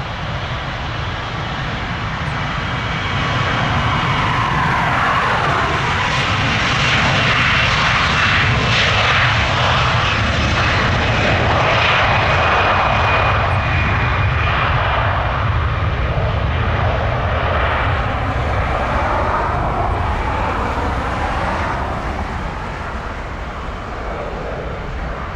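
Jet airliner passing by, its engine noise swelling to a peak about ten seconds in, then slowly fading, with a faint high whine over the rush.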